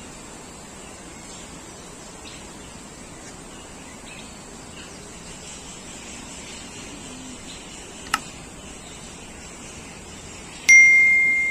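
Faint bird chirps over a steady aviary background, with a sharp click about eight seconds in. Near the end a loud, high ring at one pitch starts suddenly and fades slowly.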